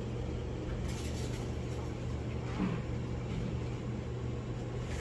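A steady low hum, with a faint short falling sound about two and a half seconds in.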